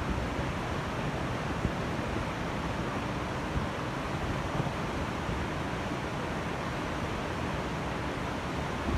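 Steady rush of a waterfall running heavy with rainwater, an even noise with no breaks.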